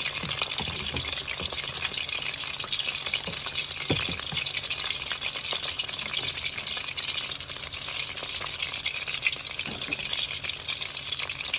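Battered chicken wings deep-frying in hot oil: a steady sizzle with scattered sharp crackles and pops, and a few light clicks of the pieces being handled in the pan.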